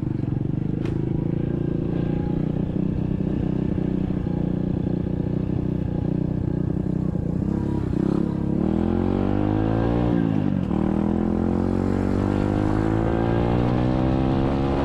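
SSR 125cc dirt bike's single-cylinder engine running steadily at low speed, then revving up about eight seconds in, dropping off sharply around ten seconds, and climbing again toward the end.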